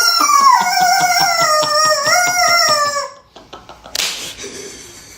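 A loud, high-pitched wailing cry that slides down in pitch with a rapid pulsing, breaking off about three seconds in; two short breathy bursts follow.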